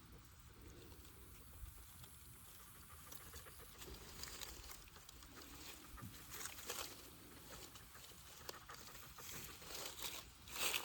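Soft, irregular rustling and scuffling from a fox moving about at close range, getting busier and louder toward the end.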